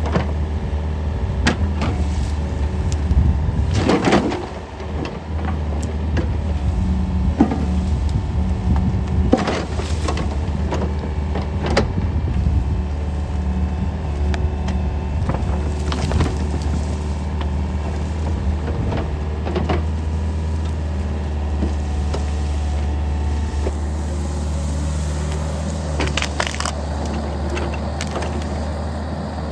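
Yanmar VIO50 mini excavator's diesel engine running steadily, with wood cracking and splintering a dozen or so times as the machine pushes over and breaks up trees.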